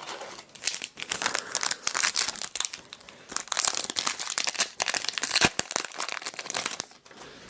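Foil Pokémon booster pack wrapper crinkling as it is handled and torn open: a dense, irregular crackle.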